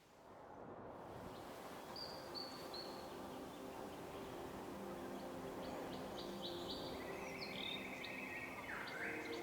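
Wild birds calling over a steady outdoor background hiss that fades in at the start: short high chirps about two seconds in, then a fast trill and a falling call near the end.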